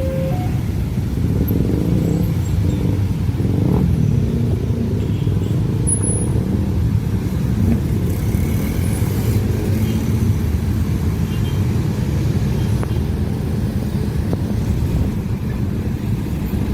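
A railway train running past with a steady low rumble.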